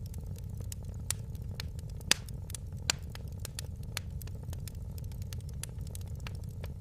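Wood fire in a fireplace crackling, with irregular sharp pops over a steady low rumble of the flames. The loudest pop comes about two seconds in.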